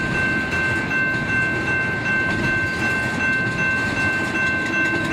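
A train rolling by: a steady rumble with several high-pitched tones held unchanged over it.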